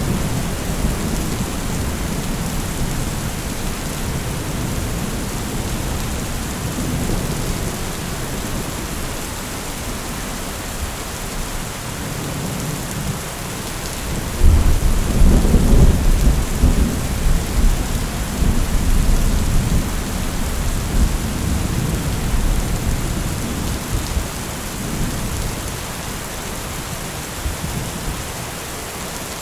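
Heavy rain falling steadily with thunder rumbling low underneath. About halfway through, a louder peal of thunder breaks and rolls on for several seconds before dying away.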